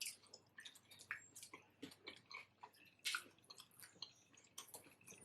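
Faint, irregular wet smacks and clicks of a person chewing a fried chicken wing close to the microphone. The strongest smack comes about three seconds in.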